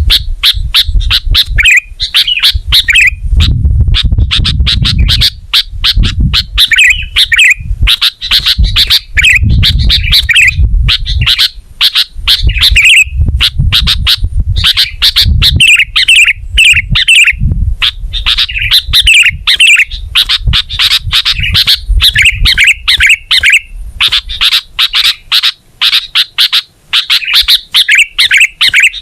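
Sooty-headed bulbul singing loudly and continuously: rapid chirping, chattering phrases with brief pauses between them, over a low background rumble.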